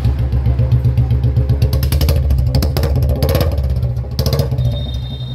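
Royal Enfield Bullet 350's single-cylinder engine running at idle with a steady pulsing beat, freshly started by a hand lever in place of the kick-start. A few sharp clattering noises sound over it between about two and four and a half seconds in.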